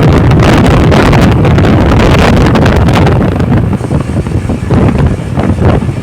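Loud wind buffeting the microphone: a dense, uneven rumbling rush, heaviest in the low end.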